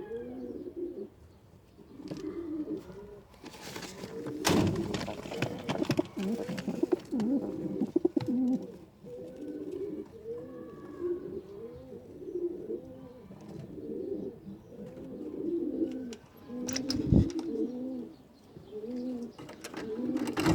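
Domestic pigeons cooing continuously, several birds overlapping in repeated low rolling coos. There are a couple of brief louder noisy bursts, around a quarter of the way in and again near the end.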